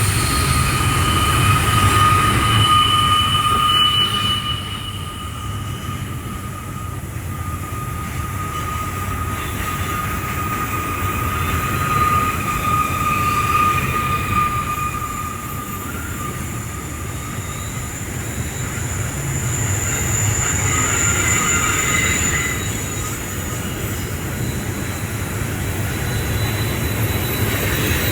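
Double-stack container freight train rolling past: a steady low rumble of wheels on rail, with thin high-pitched wheel squeals that come and go.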